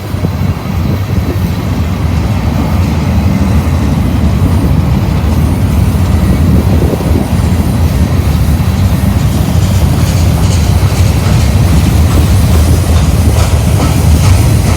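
Union Pacific mixed-freight train rolling past, its steel wheels clacking over the rails in a steady, loud rumble.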